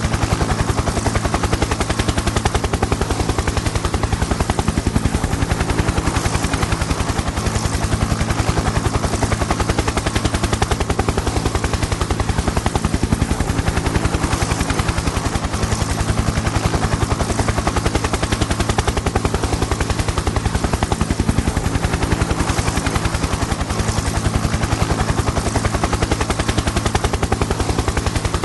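Helicopter in flight: a rapid, even chop of the rotor blades over a steady low engine hum, unchanging.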